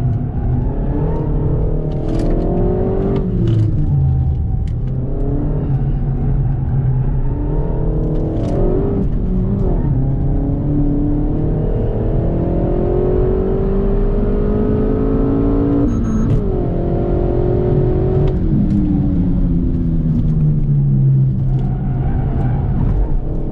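Renault Mégane RS Trophy's turbocharged four-cylinder engine heard from inside the cabin under hard track driving, its pitch climbing through each gear and dropping sharply at the shifts, then falling as the car slows for corners. A few sharp clicks are heard along the way.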